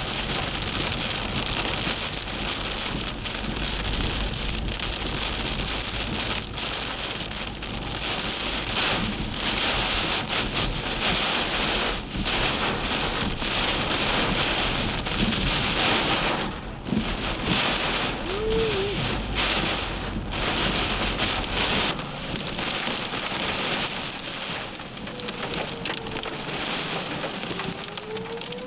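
Torrential rain pouring down in a severe thunderstorm: a dense, steady hiss that swells and eases, with low rumbling in the first several seconds. Faint gliding tones rise and fall about two-thirds of the way in and again near the end.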